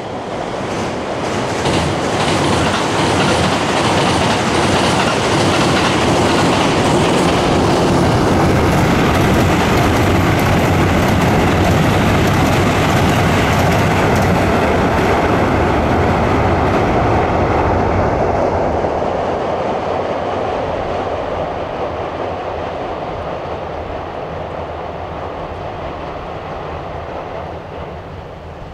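JR East 255 series electric express train passing over a steel truss railway bridge, its wheels running on the rails. The sound builds over the first two seconds, stays loud until about eighteen seconds in, then fades steadily as the train moves away.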